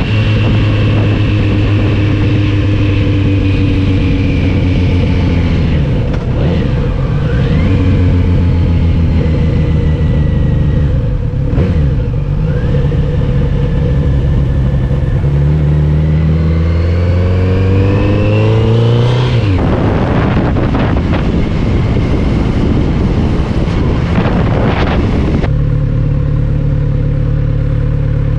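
Motorcycle engine under way, its revs rising and falling through the gears: a long climb in pitch, then a sudden drop, and near the end a steadier, lower note.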